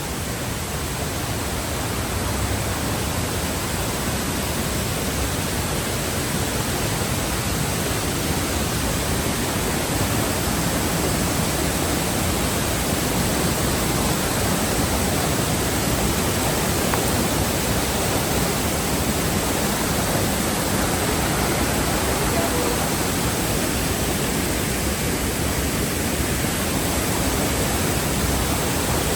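Waterfall rushing: a steady, even roar of falling water that grows a little louder over the first few seconds.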